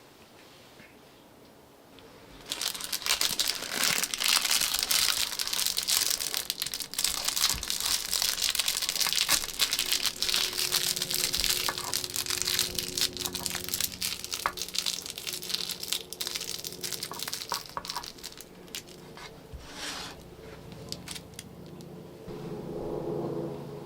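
Packaging being crumpled and scrunched by hand, a dense crinkling crackle that starts a couple of seconds in, runs for about sixteen seconds and tails off near the end.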